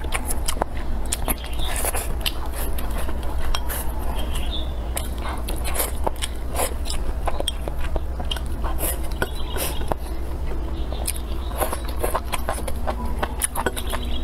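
Close-miked eating: a person biting and chewing soft hot-pot food and rice, with many quick, irregular wet mouth clicks and smacks over a steady low hum.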